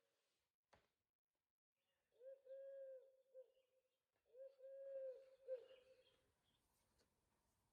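A click, then a recorded bird's soft hooting call played twice from a children's sound book's speaker, each phrase a short note, a long held note and a short note.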